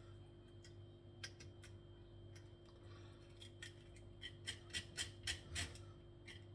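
Sharp kitchen scissors snipping the nails off chicken feet: a series of short, sharp clicks, a few at first and then a quick run of them from about halfway through.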